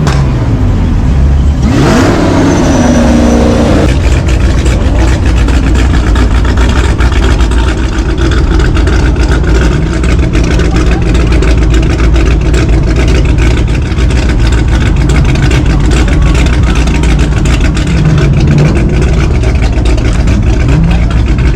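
Car engine revving hard: the pitch sweeps and falls about two seconds in, then the engine holds a loud, steady run for the rest of the time.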